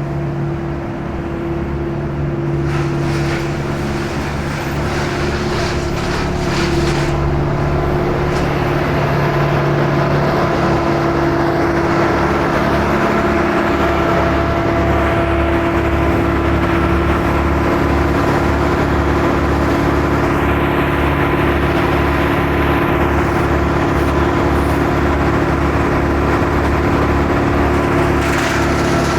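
A tree-clearing crew's engine running steadily and loudly, a drone of several held tones over a fast, even low pulse, swelling slightly in the first few seconds.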